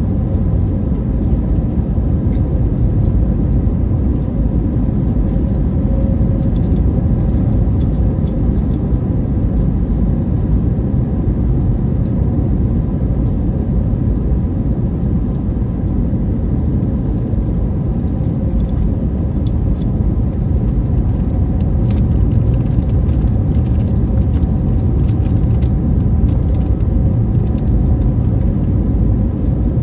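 Steady low rumble inside the cabin of an Airbus A321neo, with faint steady hums above it.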